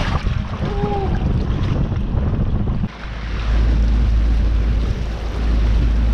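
Strong wind buffeting the microphone over the rush of a boat moving on open water. The low rumble drops out for a moment about three seconds in, then comes back heavier.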